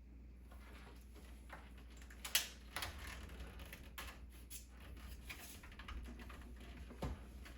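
A run of irregular small clicks and taps, with one sharper click a little over two seconds in and another near the end, over a faint steady low hum.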